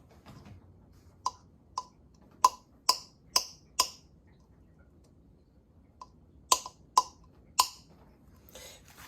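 A series of sharp, hard taps or clicks, each with a brief ring: six in quick succession, a pause, then four more, and a short scrape near the end.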